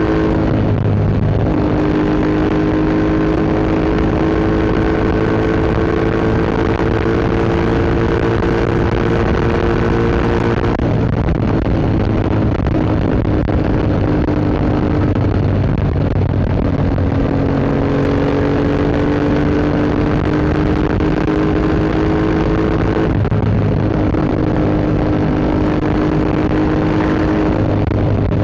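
Yamaha MT-07 parallel-twin engine through an Akrapovic Racing Line exhaust, running under steady load on the move. Its note climbs slowly, drops sharply about eleven seconds in and again about twenty-three seconds in, and climbs again after each drop.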